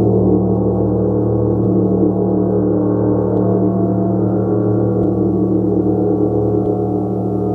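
Large gong played in a continuous, steady wash of sustained tones, with a dense mix of low overtones and a few soft strikes that keep it sounding.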